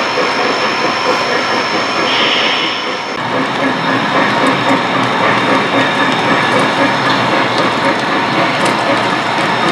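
O-scale three-rail model train running on the layout: a steady mechanical rattle of gears and wheels on the track, with a short hiss about two seconds in.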